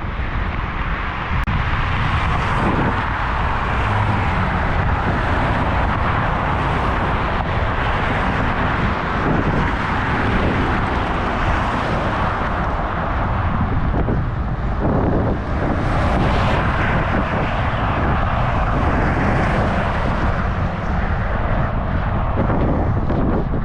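Steady roar of wind over an action camera's microphone while cycling, mixed with road noise, with no break or change in level.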